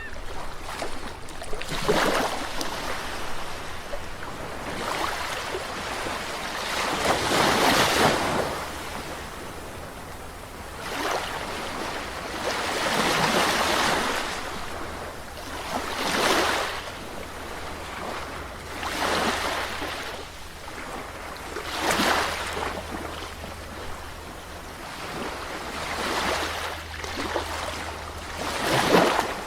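Sea waves breaking and washing on a shore, each wave swelling and falling away every few seconds, the loudest near the end, over a faint steady low rumble.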